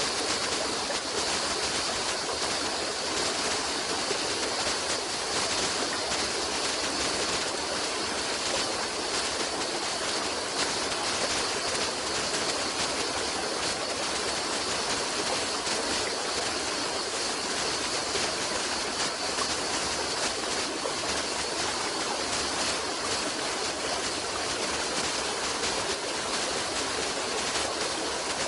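A stream's running water, a steady rushing and gurgling without pause.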